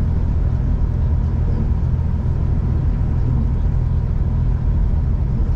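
V/Line regional diesel train running at steady speed, heard from inside the carriage: a steady low rumble with a constant engine hum.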